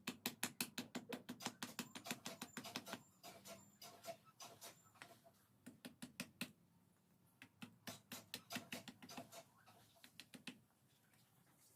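Rapid series of light taps or clicks, about five a second, thinning to scattered taps after about three seconds.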